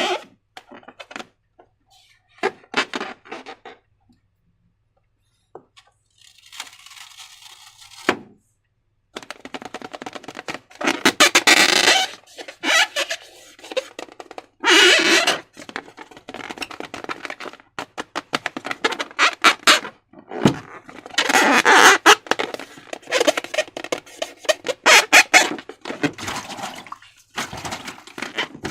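Slime and rubber balloons being handled: irregular wet squelching, crackling and squeaks in bursts, with a near-silent pause early on.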